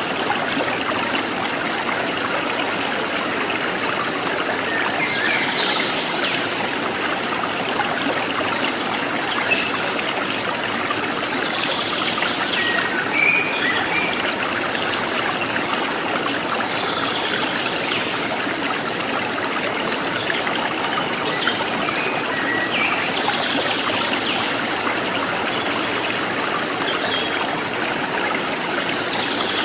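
Forest stream trickling and babbling steadily, with short bird calls rising above it every five or six seconds.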